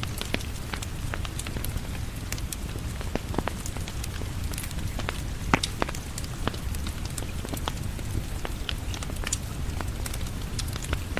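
Wood fire crackling, with irregular sharp pops throughout, the loudest about halfway through, over a steady low rumble of rain.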